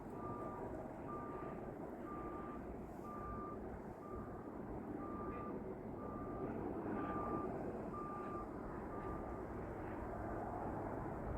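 Electronic warning beeper sounding a steady series of short, single-pitched beeps, about three every two seconds, which stop near the end. A constant low rumble runs underneath.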